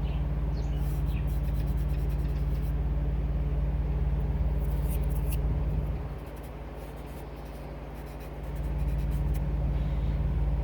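Pastel crayon scratching across paper in short bursts of quick strokes, over a steady low mechanical hum that dips for a couple of seconds past the middle and then comes back.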